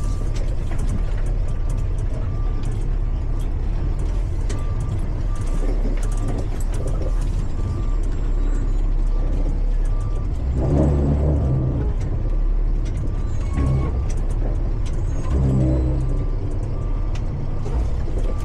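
Heavy truck engine running steadily, with a backup alarm beeping about once a second. The engine grows louder twice, in the second half.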